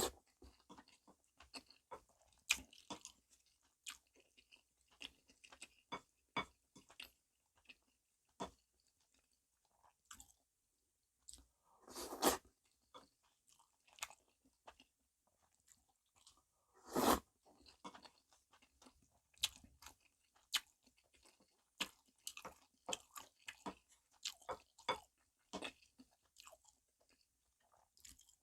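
Chewing and crunching of soy-sauce-marinated stone crab with rice: many short, sharp crunches of crab shell. Two louder, longer bites come in the middle.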